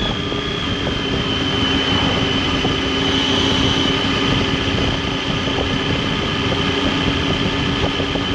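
Triumph Tiger 800's inline three-cylinder engine and exhaust running steadily at a cruise, with a constant drone and no marked rise or fall in revs.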